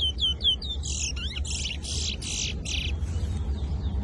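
Small caged songbird singing: a quick run of hooked whistled notes, then about five harsh buzzy phrases in a row, thinning to faint scattered chirps near the end. A steady low rumble runs underneath.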